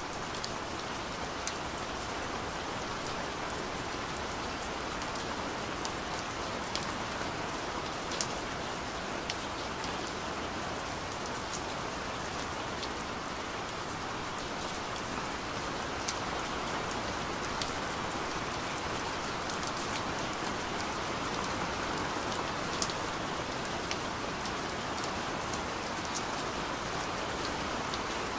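Steady rain, an even hiss with many scattered sharp ticks of single drops landing close by.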